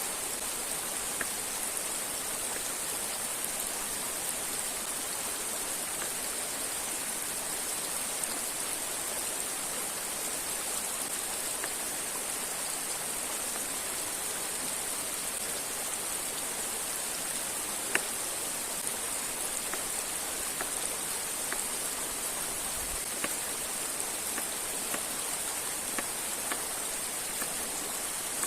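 Steady rush of a river and waterfall, with scattered faint ticks and one sharper click about 18 seconds in.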